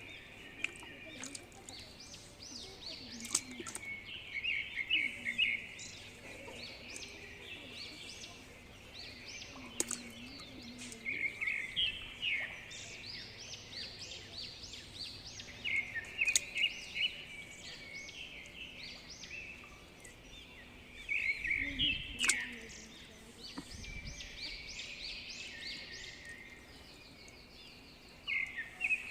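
Small birds chirping in quick runs of high notes that come again every few seconds, with a few sharp clicks between them.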